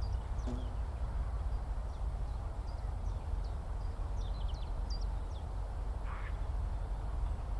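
Skylark song: many short, quick high chirps scattered throughout, over a steady low rumble. A brief rasping call sounds about six seconds in.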